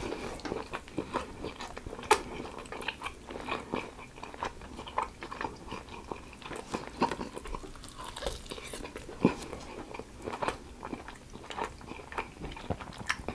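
Close-up chewing and biting of a chicken wing, with irregular crunches and short sharp clicks as the meat is pulled apart and chewed.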